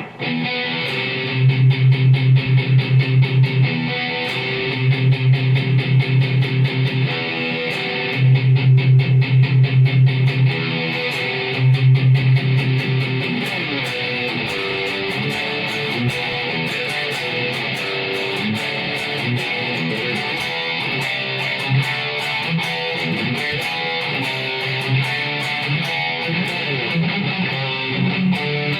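Electric guitar (Jackson JS32RT Dinky) played through a high-gain Zoom G5N metal patch into a Marshall MG30 FX amp. The first half has four bursts of fast, chugging low notes, and the rest is busier single-note riffing.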